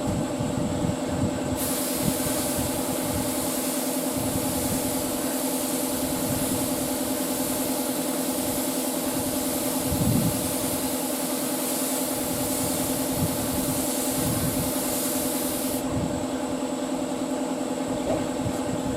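Lacquer spray gun spraying: a steady hiss that starts about a second and a half in and cuts off a few seconds before the end, over a steady machine hum and light handling knocks.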